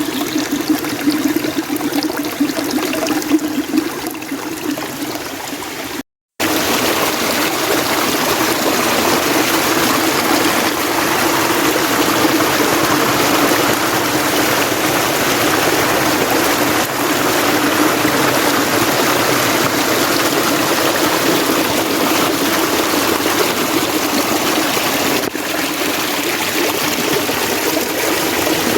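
Mountain stream water flowing steadily. It drops out to silence for a moment about six seconds in, then comes back fuller and slightly louder.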